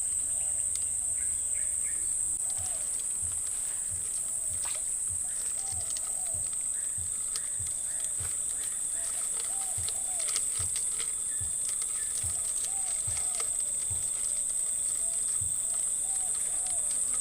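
Steady high-pitched drone of insects in riverside vegetation, with short wavering calls repeating every second or two beneath it and a few faint low knocks.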